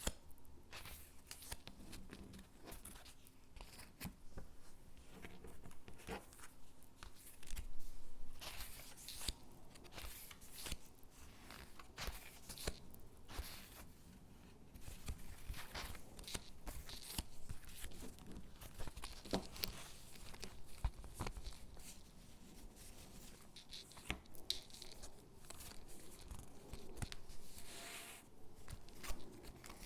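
Stickers being peeled from their backing sheet and pressed onto paper gingerbread cutouts: short, irregular peeling and tearing rasps with paper rustling and light taps.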